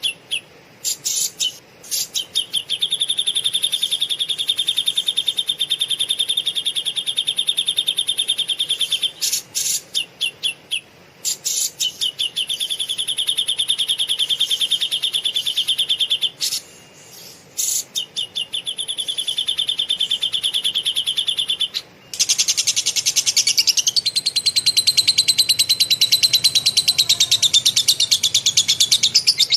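Caged songbird singing long, very fast rattling trills broken by short pauses, then a denser, higher unbroken chatter from about two-thirds of the way in.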